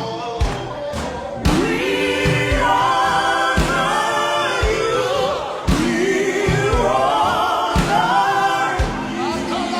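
Gospel choir singing a worship song with a band, drum thumps beneath the voices.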